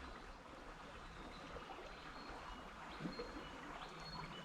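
Faint, steady rush of stream water, with a few brief, faint high chirps in the second half.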